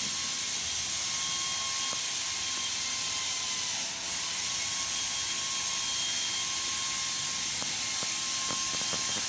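Steady mechanical hiss with a faint high whine running underneath, and a few light clicks of tools on metal near the end.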